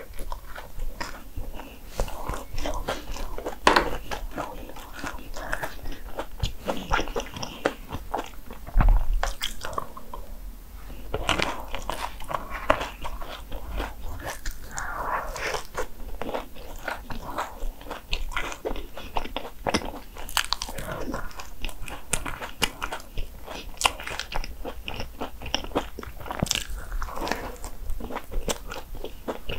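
Biting and chewing of Hong Kong egg waffles, a dense crunching that runs throughout, with louder bites about four and nine seconds in.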